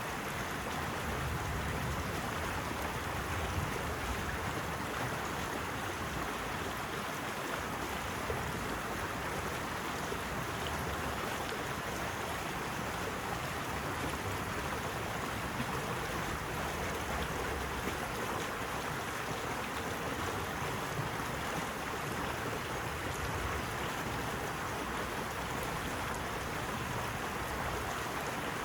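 Flowing water rushing steadily and evenly, with no swells or breaks.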